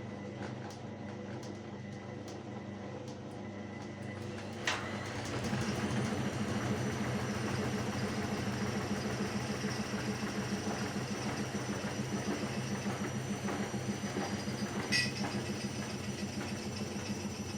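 Washing machine running with a steady motor hum. About five seconds in there is a click, then the drum motor speeds up with a rising whine and runs louder with a rhythmic pulse. Another click comes near the end.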